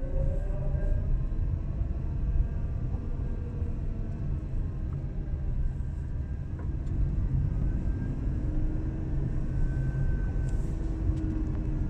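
Renault Zoe electric car coasting downhill in neutral: steady road and tyre rumble with a drivetrain whine on top. The whine's pitch falls over the first second, then rises again from about eight seconds in. This is the loud noise the car makes downhill in neutral.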